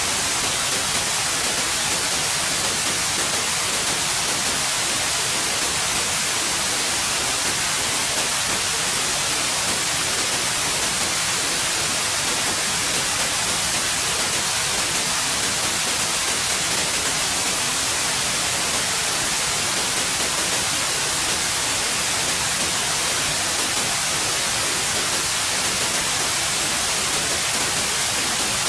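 Steady white noise: an even, unchanging hiss spread across all pitches, strongest in the highs.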